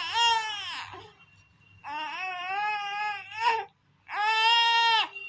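A small child crying in anger, three long high-pitched wails with short breaks between them, a tantrum rather than pain.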